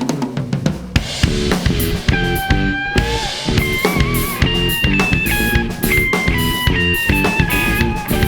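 A band playing an instrumental passage on drum kit, guitar and bass, with a lead melody of held notes over a steady beat. It starts abruptly at full level.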